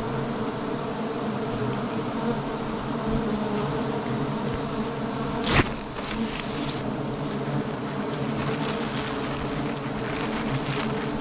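A mass of honeybees buzzing in a continuous, steady drone. A single sharp click cuts through about halfway.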